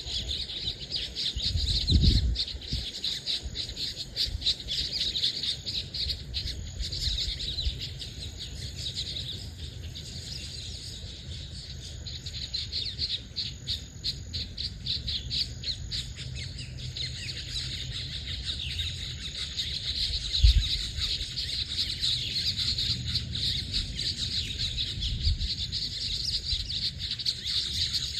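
A dense chorus of birds chirping and singing together without a break, with two short low rumbles, about two seconds in and again about twenty seconds in.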